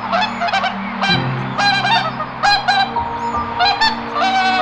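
A bird calling in a series of short, pitched calls, several a second or so apart, over a low steady drone.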